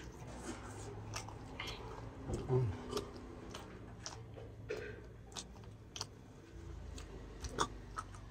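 Close mouth sounds of a person chewing pork and rice: soft wet smacks and small clicks at an uneven pace.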